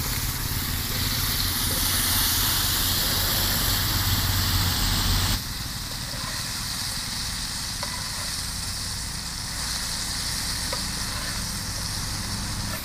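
Boiled tapioca cubes sizzling in a pan of hot oil left from frying fish. The sizzle is steady, then drops suddenly to a quieter level about five seconds in.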